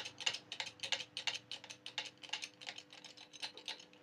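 Rapid, even clicking, about five clicks a second, from a hydraulic press being worked to push the shaft out of a table fan's rotor. A faint steady hum runs underneath.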